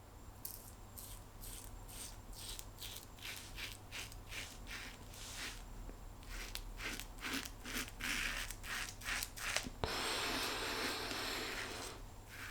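Quad-edge safety razor scraping through lathered stubble in short strokes, a rasp with each stroke at roughly two a second, then a steadier rasp for about two seconds near the end.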